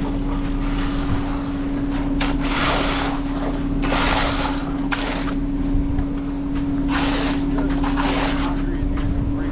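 Concrete mixer truck's diesel engine running steadily at a constant pitch, with a few surges of rushing noise over it.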